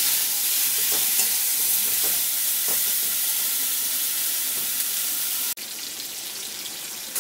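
Cauliflower florets frying in hot mustard oil in a kadai as they brown: a steady sizzle with occasional strokes of a metal spatula stirring them. About five and a half seconds in, the sound breaks off abruptly and the sizzle carries on quieter.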